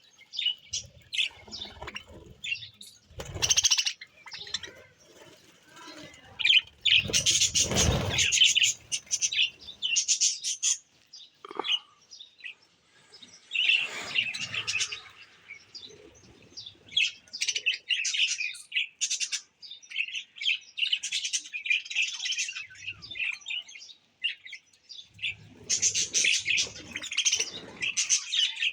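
Small birds chirping in quick, high-pitched calls, with a couple of louder thumps about three and a half and eight seconds in.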